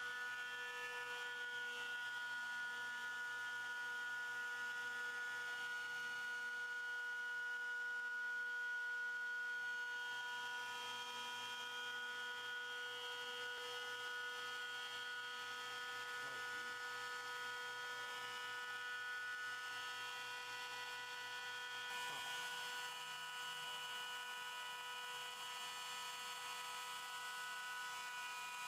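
CNC machine running, its motors giving a steady whine of several pitches held together, with a slight change in the sound about 22 seconds in.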